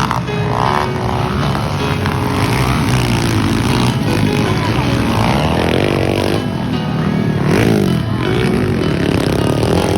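Several small underbone motorcycle engines revving, their pitch rising and falling repeatedly and overlapping, with music playing underneath.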